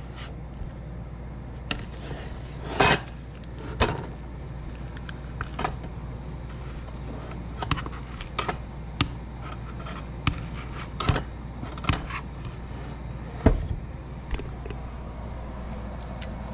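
Kitchen clatter: scattered clinks and knocks of dishes, pans and utensils being handled, about a dozen in all, the loudest near 3 seconds and 13 seconds in, over a steady low hum.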